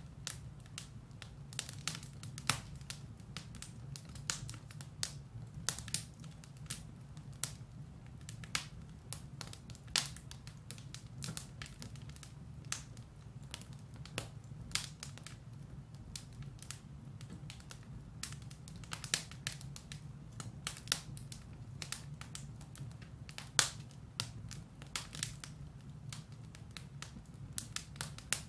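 Firewood burning in a fireplace: irregular sharp crackles and pops over a steady low rush of the flames.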